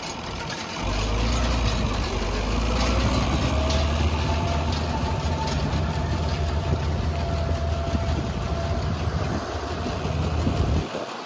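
Tractor engine running steadily with a low rumble and a whine that rises in pitch over the first few seconds, then holds. The rumble comes in about a second in and cuts off abruptly near the end.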